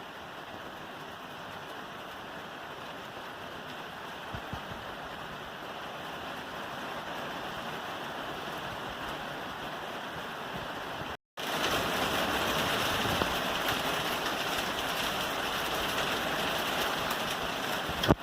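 Steady rain falling on a roof, a continuous hiss that slowly grows louder. It drops out completely for a split second about eleven seconds in, then comes back louder, and a single sharp click sounds near the end.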